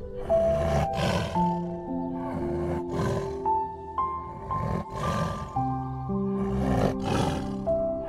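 A white tiger roaring four times, about two seconds apart, over background music of long held notes.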